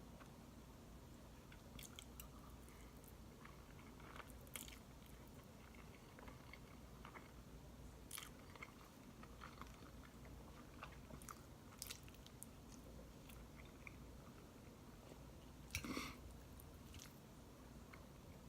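Faint close-up sounds of a person chewing and eating spaghetti and buttered bread, scattered small mouth clicks over a low steady room hum, with one louder brief mouth or eating noise near the end.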